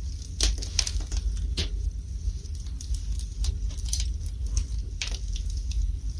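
Wood fire burning in a fireplace: burning logs give irregular crackles and sharp pops over a steady low rumble.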